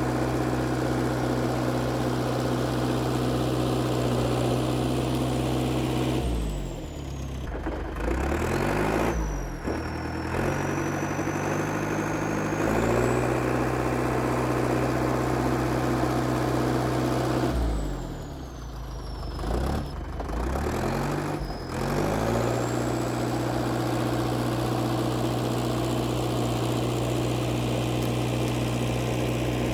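International Harvester TD8E crawler bulldozer's diesel engine running steadily, its speed twice dropping and climbing back, about a third of the way in and again past the middle, with a faint high whine that follows the engine speed.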